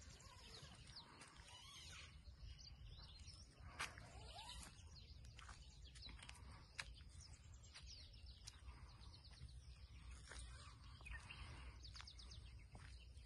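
Faint birdsong: several birds giving many short chirps and whistles, with a few sharp clicks and a steady low rumble underneath.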